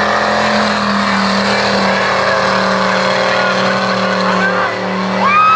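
Mega mud truck engine running hard at high, steady revs, with a rough noisy wash over it as the truck churns through the bog. Near the end a loud, steady high-pitched tone rises in over it.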